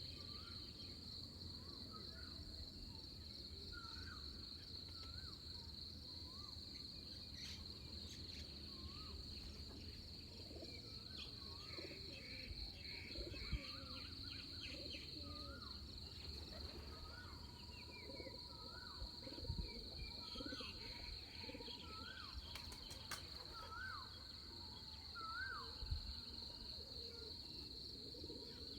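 Night-into-dawn nature chorus: insects keep up a continuous high-pitched trill, while a bird repeats a short rising-and-falling call note about once a second. A low rumble runs underneath.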